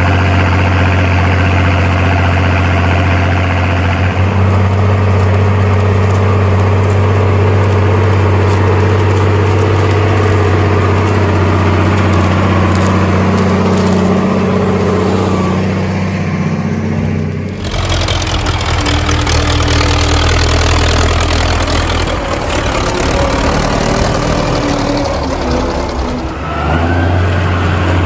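Cartoon vehicle engine sound effects: a steady engine hum that changes pitch and character about four seconds in and again after about eighteen seconds.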